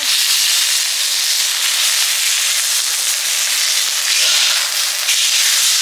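Meat sizzling as it cooks over the camp stove, a steady, even hiss.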